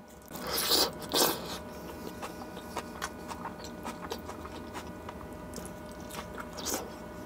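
Close-miked eating sounds: a man biting and chewing mouthfuls of food, with many small wet mouth clicks. Louder bites come about half a second in, just after a second, and near the end.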